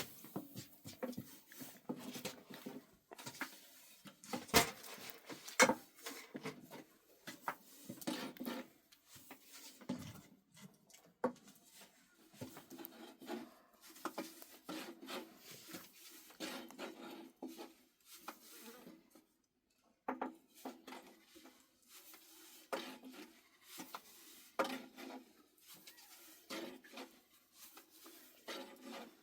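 Irregular knocks, clatters and rubbing of objects being handled, the loudest knocks a few seconds in.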